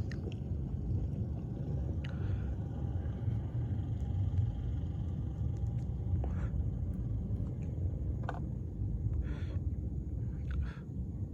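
A steady low rumble with a few faint, brief higher sounds over it.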